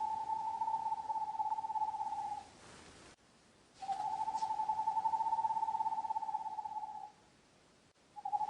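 An owl giving long, even trilled calls at one steady pitch: one that ends about two seconds in, a second lasting about three seconds, and a third starting near the end.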